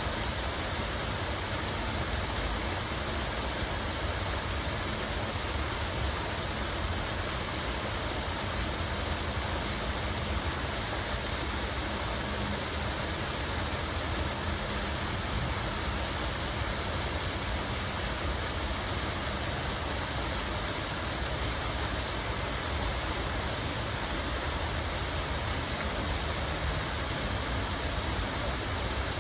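Steady rush of flowing, falling water, even and unbroken, with a low rumble underneath.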